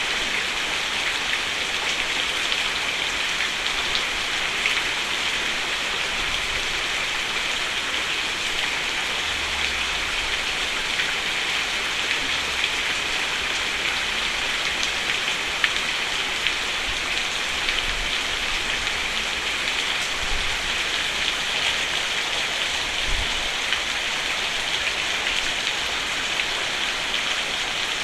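Steady, heavy rain falling on a roof: a dense, even patter with many scattered individual drop hits.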